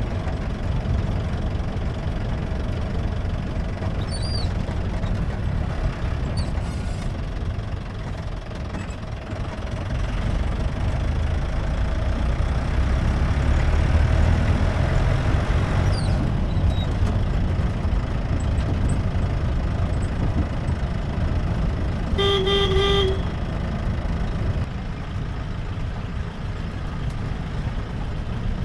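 Jeep driving on a hill road: steady engine and road rumble that grows louder for several seconds in the middle. A horn toots briefly about three-quarters of the way through.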